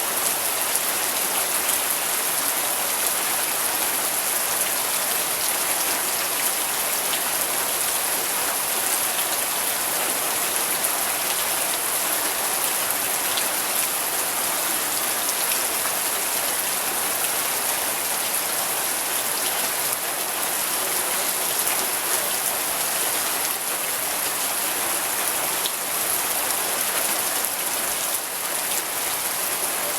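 Steady rain falling and pattering on surfaces, an even hiss with no pauses and no thunder.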